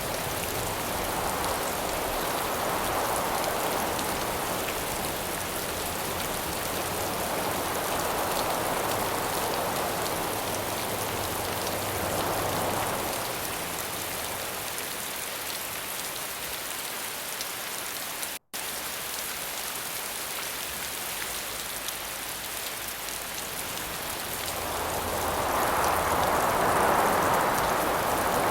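Steady rain falling, with gusts of wind swelling and fading every few seconds, the strongest gust near the end. The sound cuts out for an instant about two-thirds of the way through.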